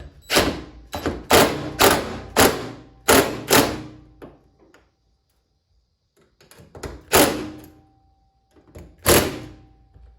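A series of sharp knocks on the truck's sheet-metal door. Six come in quick succession, then after a pause there are two more about two seconds apart, each with a short metallic ring.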